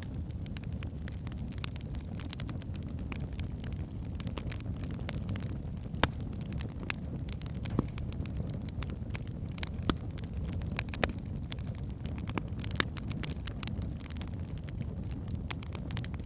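Wood fire burning in a fireplace: a steady low rumble of flames with frequent sharp crackles and pops from the logs, a few louder pops scattered through.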